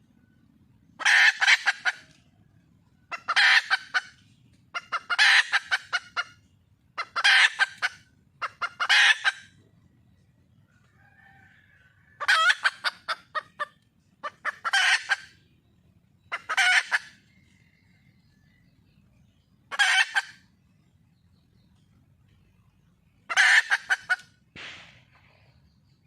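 Red junglefowl hen (wild chicken) calling: loud cackling bursts, each a quick run of sharp clucks, repeated about ten times at intervals of two to three seconds.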